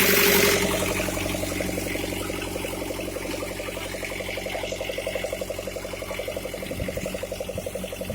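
Fiatagri 680 tractor's diesel engine running steadily at idle with a rapid, even beat. A loud hiss fades out in the first half second.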